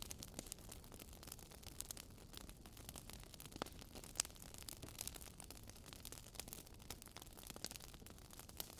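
Wood campfire crackling: irregular small pops and snaps, with one sharper pop about four seconds in, over a faint steady hiss.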